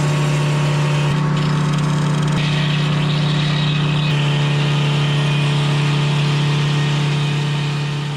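An engine running at a steady speed, a loud, even hum that holds one pitch throughout.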